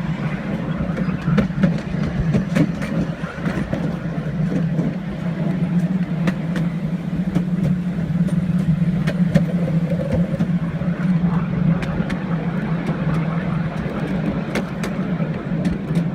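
Train running along the track: a steady low engine drone under a rumble of running noise, with scattered sharp clicks and rattles.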